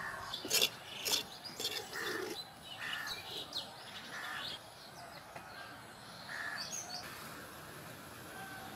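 Small birds chirping in short, scattered notes, with two sharp clicks about half a second and a second in.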